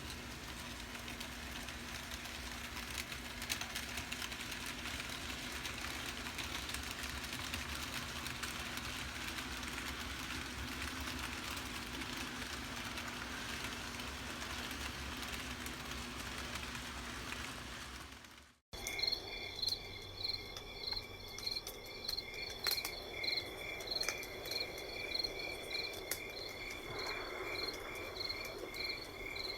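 A steady hiss with a low hum, cut off abruptly two-thirds of the way through. Crickets then chirp in a steady rhythm, a few chirps a second, over a continuous high ringing tone.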